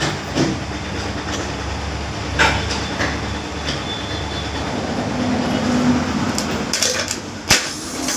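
Metal parts of a starter-motor solenoid being handled and fitted: a few sharp clicks and knocks over a steady rumbling background noise.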